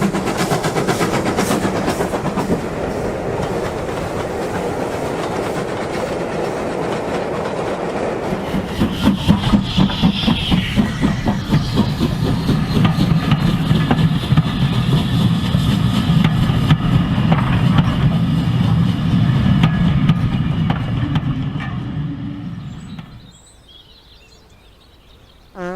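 Train running on track with a rhythmic clickety-clack of wheels over rail joints. It grows louder about a third of the way in, holds, then fades away near the end.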